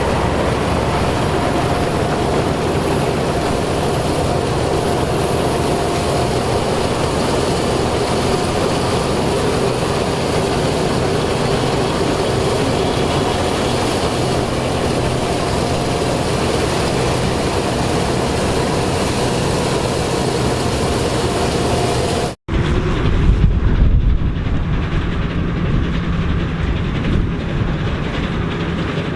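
Diesel engine of vintage harvest machinery running steadily at work, with mechanical clatter over the engine note. About three-quarters of the way through, the sound cuts off abruptly and a different machine follows with a deeper, louder rumble.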